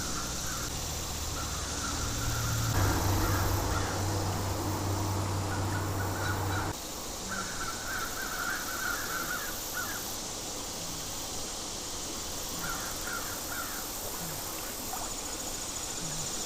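Outdoor creek-side ambience with crows cawing in short bursts several times. A louder steady rushing noise with a low hum comes in about three seconds in and cuts off abruptly about seven seconds in.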